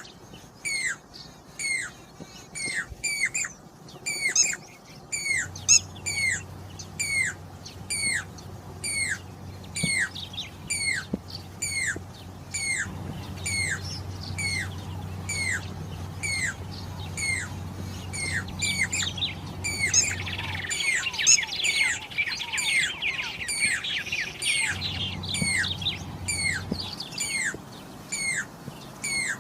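Pied cuckoo (Jacobin cuckoo) calling: a long run of short, sharp, falling whistled notes repeated about one and a half times a second. A denser burst of chattering notes comes about two-thirds of the way in, over a low steady hum.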